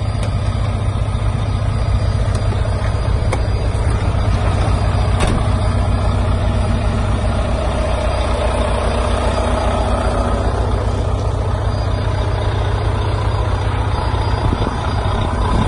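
Truck engine idling steadily with a low, even rumble, with a few faint clicks in the first five seconds.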